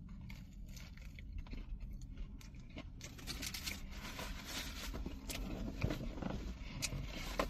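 Light rustling, scraping and crackling of food wrapping being handled while eating, over a low steady hum.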